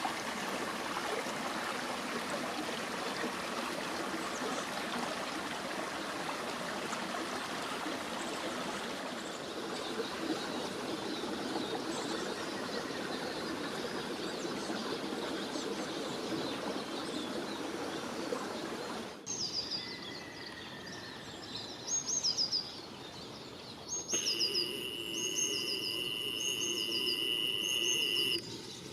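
Running water from a stream, with faint bird chirps over it. About two-thirds of the way through the sound cuts to clearer birdsong: repeated short, falling chirps, and near the end a steady high-pitched tone alongside them.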